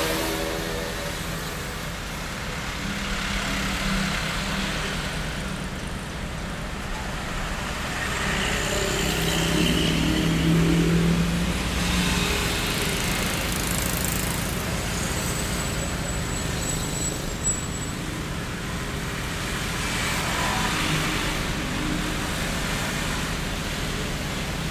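Street traffic ambience: a steady low rumble of road traffic with cars passing one after another, and an engine note that rises and falls about ten seconds in.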